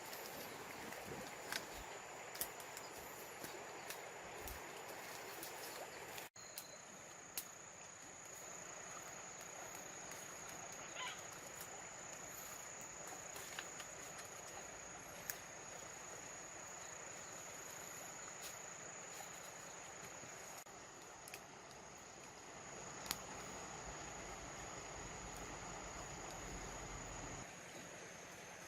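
Steady high insect drone over faint outdoor hiss, with scattered light clicks and taps.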